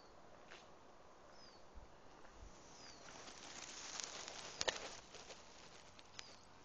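Quiet outdoor background with a small bird's short falling chirp repeating about every second and a half. About three seconds in, a rustling scuff builds up, with a sharp click about four and a half seconds in.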